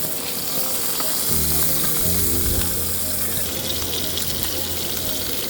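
Steak sizzling steadily in a frying pan, with a low steady hum underneath that comes in a second or two in.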